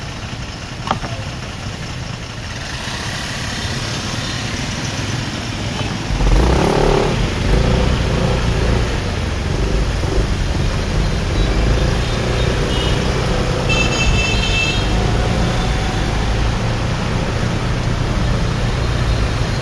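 Motorbike ride through city traffic: engine and road noise, getting louder with a deeper rumble about six seconds in. A short high-pitched beep sounds about two-thirds of the way through.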